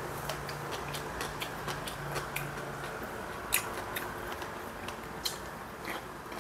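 Eating sounds: chewing of crunchy fried food, a quick irregular run of small crisp clicks and crunches, the sharpest about three and a half seconds in, over a steady background hum.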